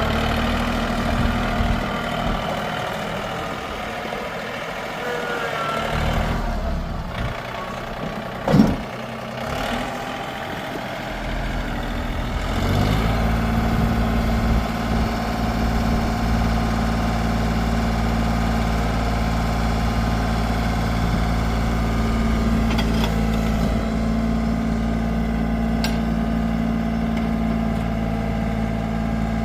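John Deere 4210 compact tractor's diesel engine running. Its sound weakens between about six and twelve seconds in, with a single brief loud sound in the middle of that stretch. From about thirteen seconds it picks up to a steady, stronger run.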